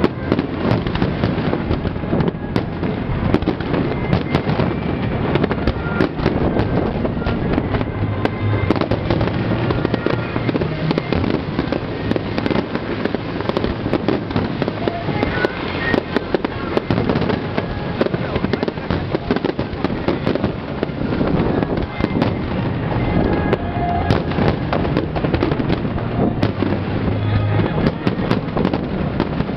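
Aerial fireworks shells exploding in a continuous barrage of bangs and crackles, with no break.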